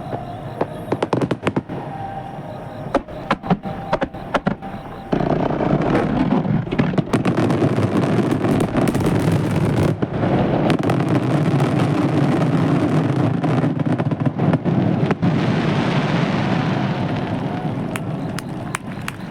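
Fireworks finale barrage. Separate sharp shell bursts and crackles for about five seconds, then suddenly a dense, continuous rumble of many shells bursting at once, which eases off near the end.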